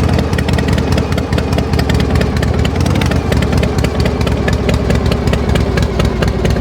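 Tractor engine running steadily with a fast, even beat, as a cartoon sound effect.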